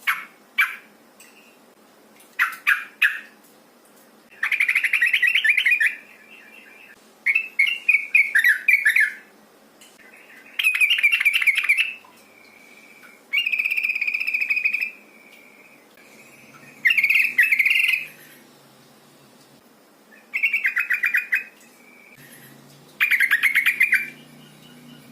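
Yellow-vented bulbul (trucukan) calling, a female's call: about nine short bursts of rapid bubbly chattering notes, one every two to three seconds.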